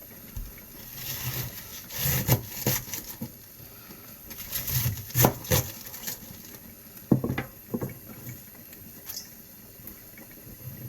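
Kitchen knife slicing cabbage on a cutting board: irregular knocks of the blade against the board, several in quick succession about five seconds in.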